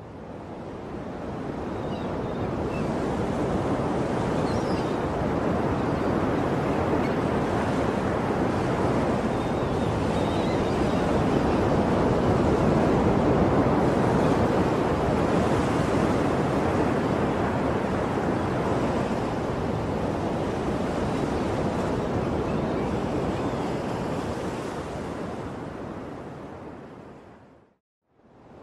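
Ocean surf sound, a steady rush of breaking waves, standing in for a siren's fire-alarm signal. It swells up over the first few seconds, holds, fades down near the end and cuts out briefly just before starting again.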